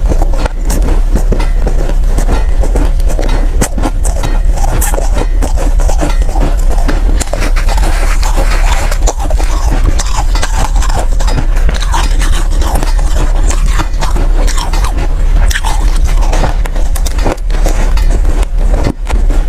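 Soft, powdery ice being bitten and chewed close to the microphone: a continuous run of crunching and scraping crackles over a steady low rumble.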